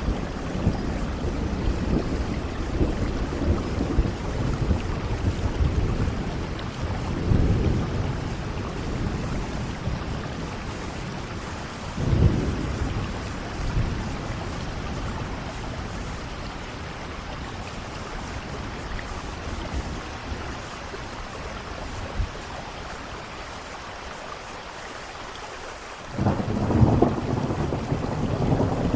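Steady rain with rumbling thunder. Deep rolls swell about seven and twelve seconds in, the storm eases to a quieter stretch, then a loud roll of thunder breaks in suddenly near the end.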